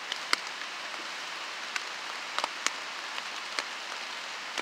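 Rain falling on a tarp: a steady hiss with scattered sharper taps of single drops hitting it.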